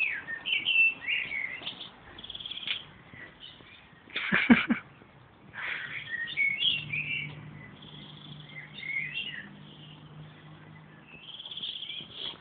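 Small birds chirping repeatedly. About four and a half seconds in there is a brief louder noise, and a low steady hum runs for several seconds in the middle.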